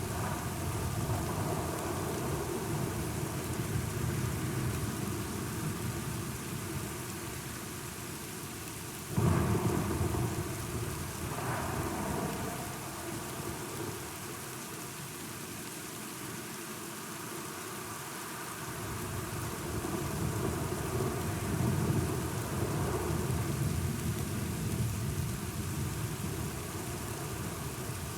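Thunderstorm with steady rain falling. About a third of the way in a sudden thunderclap breaks out and rolls into rumbling, and a second, lower roll of thunder swells up later before fading back to the rain.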